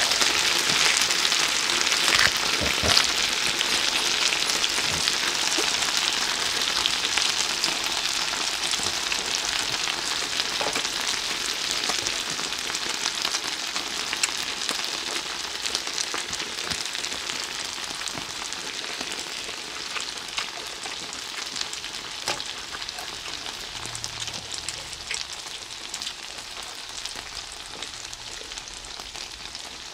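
Spicy stir-fried pork (jeyuk bokkeum) with scallions and carrots sizzling on a hot griddle pan: a steady frying hiss with scattered small pops, slowly dying down.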